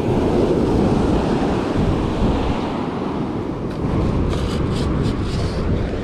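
Wind buffeting the microphone over the wash of surf at the water's edge, with a few faint high clicks about four seconds in.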